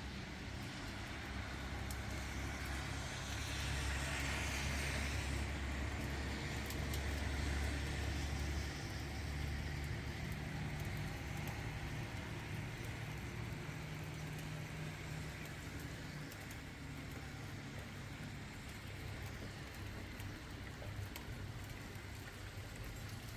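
Steady low rumble of a car driving, with a swell of tyre hiss about three to six seconds in.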